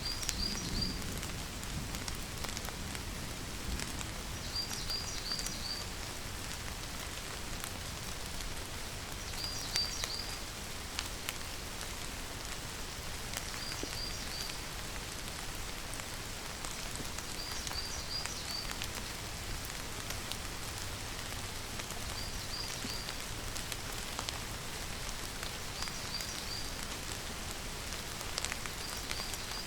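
Steady rain falling, with scattered drop ticks. A short call of three or four quick high chirps recurs about every four seconds.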